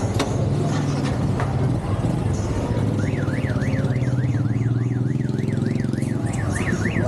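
Motorcycle engine running steadily. About three seconds in, a siren starts warbling fast, rising and falling roughly three times a second.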